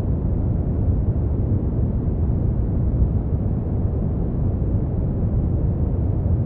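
Brown noise: a steady, deep rumbling hiss, strongest in the low end and dull at the top, with no change in level.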